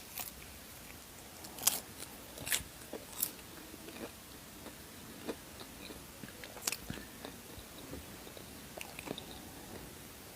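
A person biting and chewing food up close: a handful of sharp, separate crunches, with quieter chewing between them.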